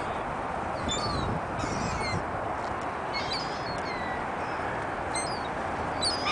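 A flock of seagulls calling, a scatter of short high cries that fall in pitch, over a steady background hiss.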